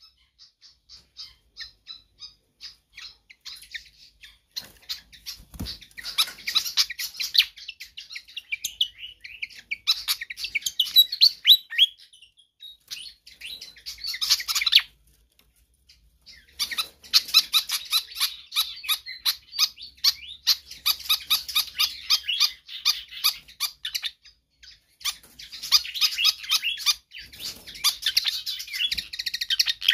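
Fantail flycatcher calling insistently: long bouts of rapid, short, sharp chattering notes, broken by two brief pauses, one about halfway through and one later on.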